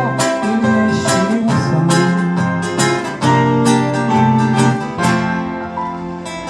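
Acoustic guitar strummed in chords, the instrumental close of a song after the singing has stopped, easing off a little near the end.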